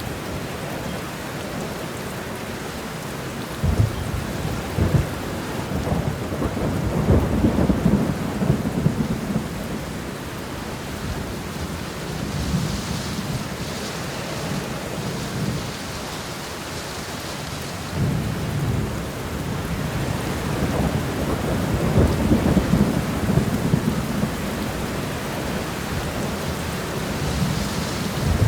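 Steady rain shower, with low rolls of thunder swelling and fading several times.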